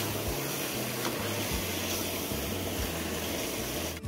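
Beef and onions frying in a pot on a propane camp stove as they are stirred: a steady sizzling hiss, with a few light ticks from the spatula.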